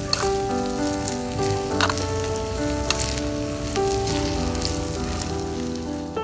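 Pork ribs and bell peppers sizzling in a miniature clay pot over charcoal, with a few sharp clicks of a small utensil stirring, over background music.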